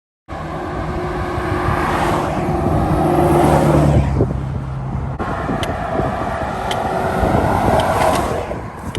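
Highway traffic going by close at hand, as heard from the road shoulder. One vehicle swells to its loudest about halfway through, and another passes near the end. The sound starts abruptly after a brief silence at the start.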